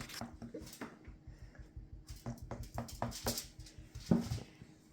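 Light, rapid tapping on the sides of a freshly filled casting mold, done to work air bubbles out of the wet mix, with a few sharper clicks among the soft taps.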